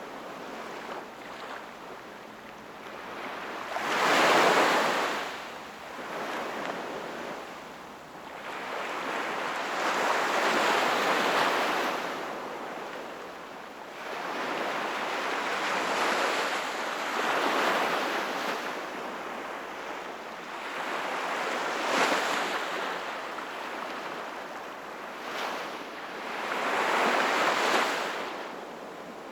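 Sea waves breaking and washing up on the shore, each surge swelling and falling away about every five to six seconds; the loudest comes about four seconds in and another near the end.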